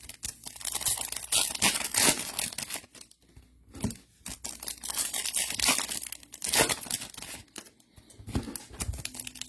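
Foil baseball card pack wrappers torn open and crinkled in irregular bursts of ripping, with short pauses about three and a half and eight seconds in.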